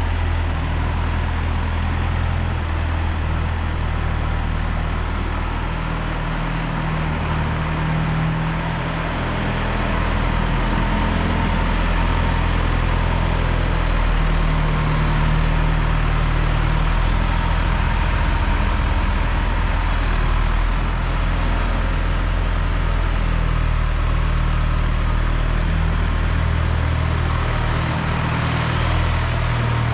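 John Deere 2030 tractor engine running steadily, getting a little louder about ten seconds in.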